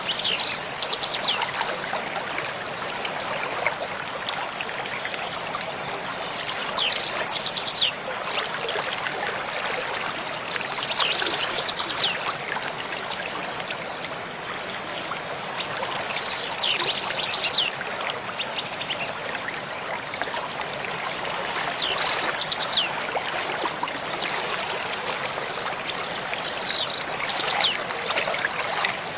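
Mountain stream flowing steadily over stones, with a songbird singing a short phrase of quick high notes about every five seconds, six times in all.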